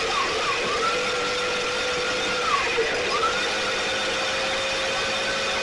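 STIHL BG 86 two-stroke leaf blower running, its high whine dipping and coming back up as the throttle is eased off and opened again, then holding steady. The blower is running again after a loose flywheel bolt that had jammed it was fixed.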